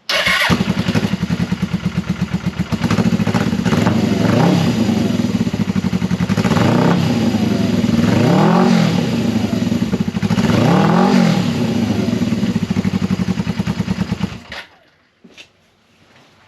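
Suzuki GS500E's air-cooled parallel-twin engine catching at once, idling and blipped up and down several times, then switched off near the end. It breathes through a cheap aftermarket silencer welded onto cut-down stock header pipes just after the 2-into-1 mixer, and the note is loud but relatively deep, not tinny or raspy.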